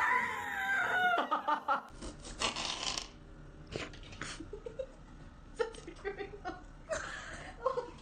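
An animal calling: one long call that falls in pitch over the first second and a half, then a run of short calls in the second half.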